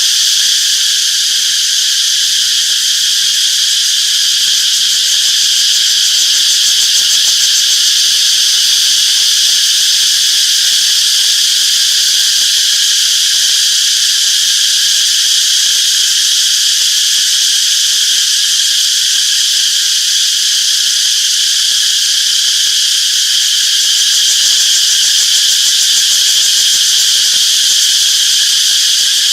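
A chorus of cicadas, a continuous high-pitched buzzing drone that holds steady throughout.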